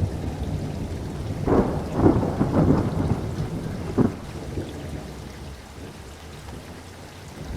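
Thunderstorm: steady rain with rolling thunder, a burst of cracking rumbles from about a second and a half in and one sharp crack about four seconds in, then the rumble dies back to the rain.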